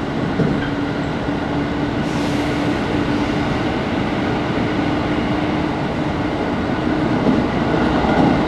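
Tokaido Main Line commuter train running at speed, heard from inside the carriage: a steady rumble of wheels on the rails with a steady low hum. About two seconds in, the hiss briefly gets louder.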